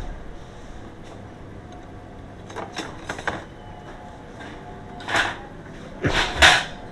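A few short scraping and knocking handling noises, the loudest pair near the end, over a faint steady background hum.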